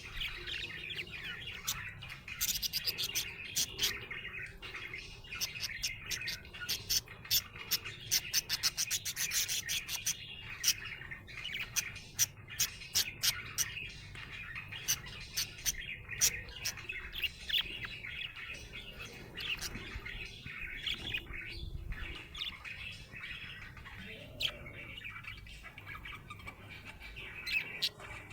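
Budgie (budgerigar) chirping and chattering continuously, with runs of rapid clicking chirps.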